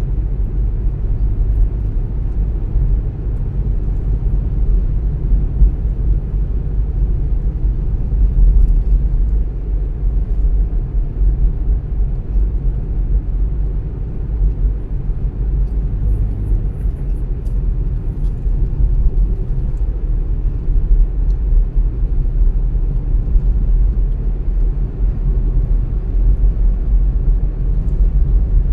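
Steady low rumble of a car driving: engine and road noise, even throughout with no sudden events.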